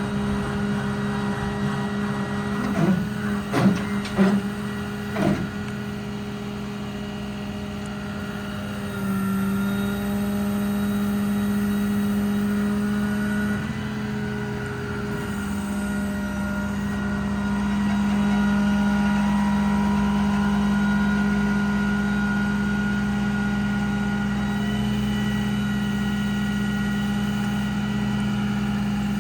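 The truck's Cummins diesel engine runs steadily, with a constant low hum. A few short sweeps up and down in pitch come about three to five seconds in. The sound grows louder in steps around nine seconds in and again after about seventeen seconds.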